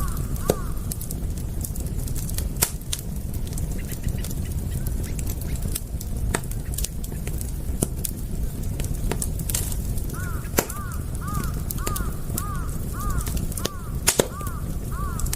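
Campfire crackling with sharp pops over a steady low rush. From about ten seconds in, a bird calls in a quick series of short chirps, about two a second.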